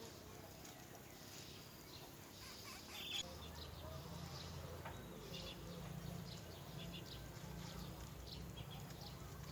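Small birds chirping faintly in many short, high chirps. A brief knock comes about three seconds in, and a low steady hum runs under the chirps from then on.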